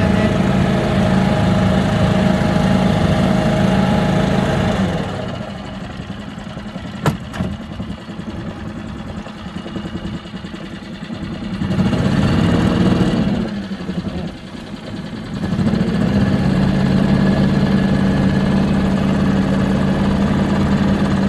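Yacht's outboard motor running steadily under way. Its sound drops away for several seconds in the middle, rises and falls briefly, then settles back to its steady running.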